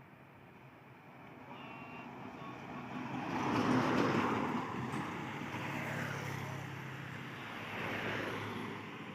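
Road vehicles passing close by on a steep climb, the sound building to its loudest about four seconds in, with a steady engine drone after it and a second, smaller swell near the end.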